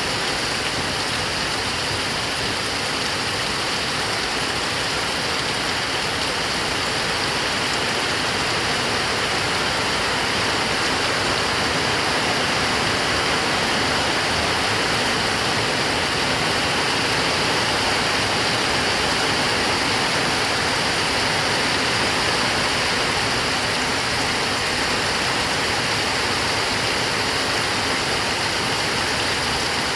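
Heavy rain falling steadily, a dense even hiss with no separate drops or thunder, swelling slightly in the middle.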